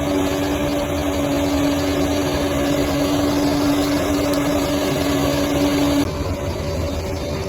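Bulldozer's diesel engine running steadily, with a steady whine over it. The whine stops abruptly about six seconds in, and the sound turns duller.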